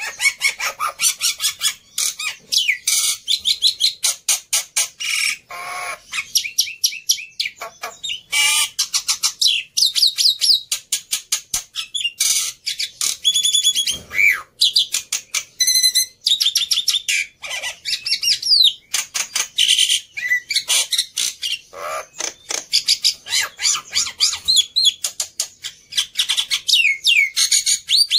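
Black-winged myna (jalak putih) singing without pause: a dense, fast run of clicks, chirps, harsh notes and whistled glides.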